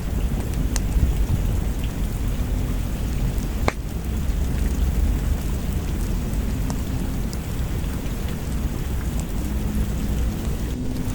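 Steady rain with a deep thunder rumble underneath, and a few sharp pops from a crackling wood fire, the loudest about four seconds in.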